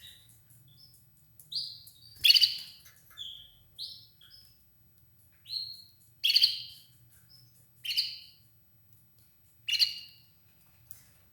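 Red ivory canary calling: short, separate chirps spaced a second or two apart, some of them louder and harsher than the rest.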